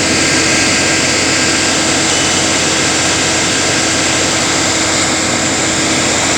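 Heavy diesel engine running steadily at high throttle, a constant loud drone with a steady hum tone.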